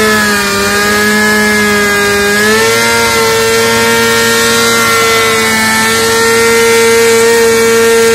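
Motorcycle engine held at high revs during a burnout, the rear tyre spinning against the asphalt. The revs sag a little at first, climb back about two and a half seconds in, and then hold steady.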